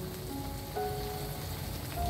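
Chili paste sizzling in oil in a wok, a steady crackling hiss, under background music of held melodic notes.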